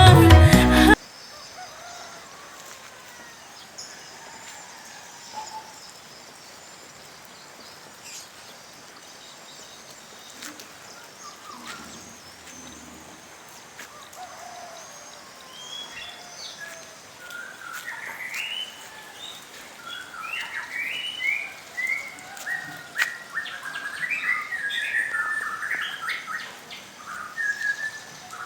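Small birds chirping, a few scattered calls at first and then busy, repeated short slurred notes in the second half, over a steady hiss of rain.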